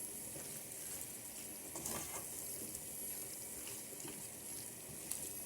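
Tomato and seafood sauce with surimi sticks sizzling steadily in a pan on the heat, with a couple of faint stirring sounds.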